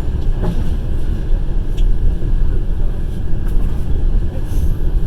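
Passenger train running along the track, heard from inside the carriage: a loud, steady low rumble of wheels and rails with a few faint clicks.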